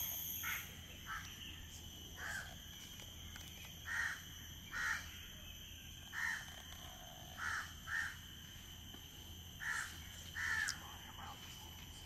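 A bird calling over and over, about ten short calls at uneven intervals, over a steady high-pitched drone.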